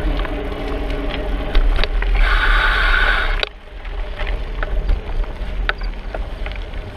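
Bicycle riding sounds heard from a rider's camera: a deep steady rumble with tyre noise and scattered rattling clicks. A louder hissy rush comes in about two seconds in and cuts off suddenly about a second and a half later.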